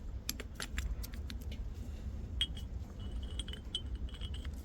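Steel gearbox parts (a gear, synchronizer ring and shift sleeve from a Toyota MMT gearbox's third-gear set) clicking and clinking against each other as they are fitted together by hand. Several quick clicks come first, then a few short metallic rings.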